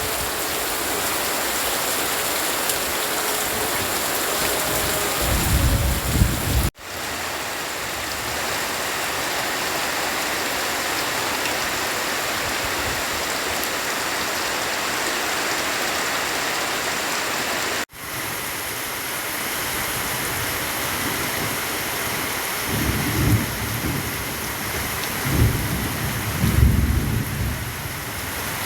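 Heavy tropical rain pouring steadily, with low rumbles swelling about five seconds in and again through the last few seconds, likely distant thunder.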